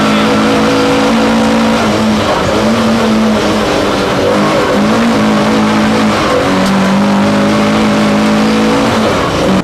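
Race car engine running hard at high revs, loud and close, its pitch dropping and climbing back several times.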